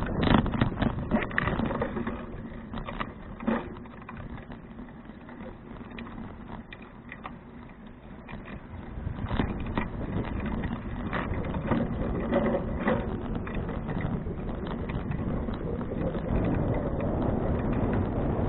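Riding noise of a 2012 Fuji Touring bicycle heard from a bike-mounted action camera: tyre and road rumble with scattered clicks and rattles from the frame and parts, under wind buffeting the microphone. It drops quieter for a few seconds about a third of the way in, then picks up again.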